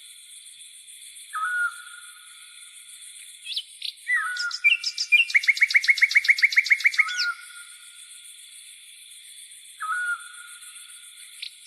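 Songbirds calling in a nature recording. A short call that drops and then holds steady repeats several times, and a fast, loud trill of about nine notes a second comes in the middle. Under them runs a steady high insect buzz, typical of grasshoppers.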